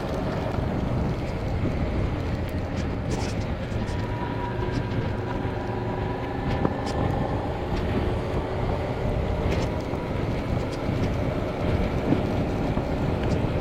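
Motorcycle engine running steadily while riding, its pitch drifting slowly up and down with speed, under steady wind and road noise.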